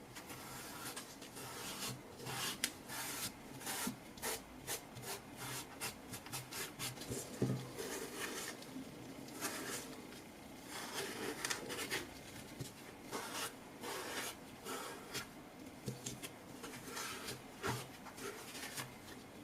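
Irregular scraping and rubbing strokes with small clicks, several a second, from hand work on the parts of a cordless screwdriver under repair.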